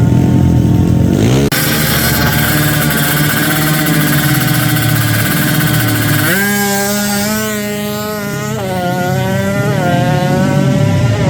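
Racing motorcycle engine revving hard under acceleration, its pitch climbing and dropping back twice in the second half as it shifts gears.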